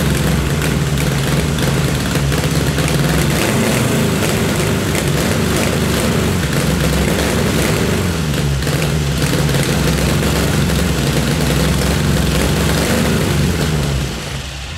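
Soviet ZAZ 1.2-litre air-cooled V4 car engine running steadily on a test stand through homemade mufflers, at its first successful start after the ignition was adjusted. The sound drops in level shortly before the end.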